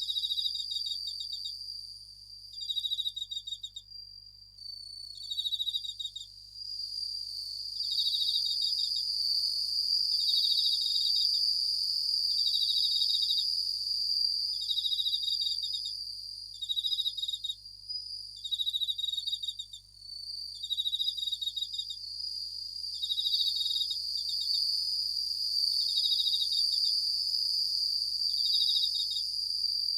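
Japanese bell crickets (suzumushi) singing: short, rapidly pulsed high trills repeated about every one and a half to two seconds, over a steady, unbroken high-pitched ringing.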